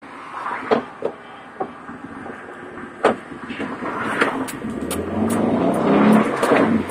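Classic VW Beetle's air-cooled 1600 dual-port flat-four with a single carburettor, pulling away from a standstill, the engine sound growing much louder over the last two seconds. Several sharp knocks and clicks come in the first three seconds.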